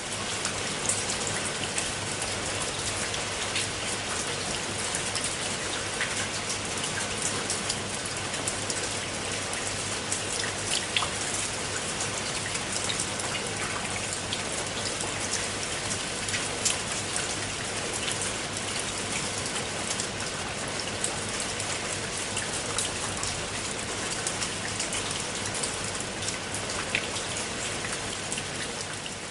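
Steady rain falling onto a pool of water: an even hiss dotted with many separate drop ticks.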